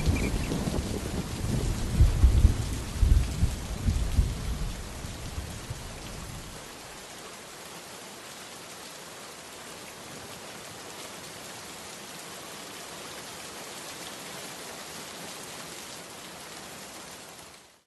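Rain falling with thunder rumbling heavily in the first few seconds, then a steady rain hiss that cuts off suddenly near the end.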